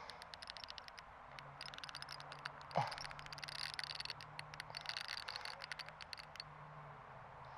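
Fishing reel clicking in rapid, irregular runs while the line is under load from a large blue catfish, over a faint low steady hum. A short falling squeal comes about three seconds in.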